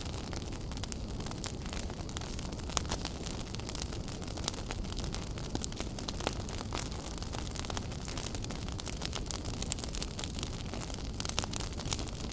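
Wood fire burning in a fireplace, crackling: a steady low rush of flames with many small sharp pops and snaps, a few louder ones scattered through.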